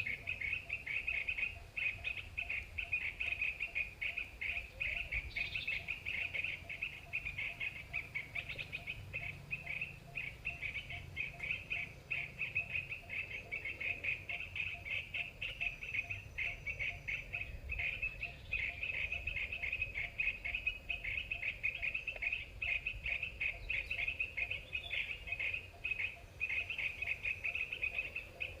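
Bird calls: a high-pitched, fast-pulsing trill that goes on without a break.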